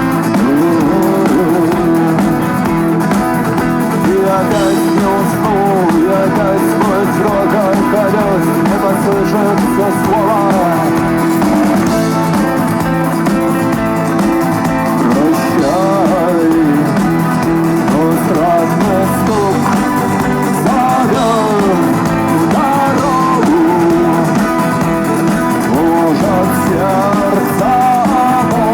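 Live rock band playing an instrumental passage: a lead guitar line with bending, gliding notes over bass guitar and drums.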